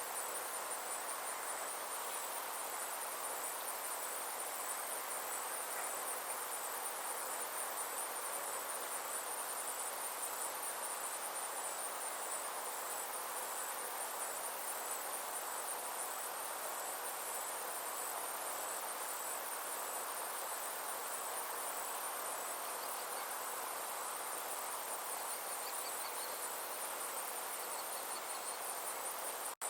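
Insects chirring steadily in a high, rapidly pulsing trill over a soft, even background hiss.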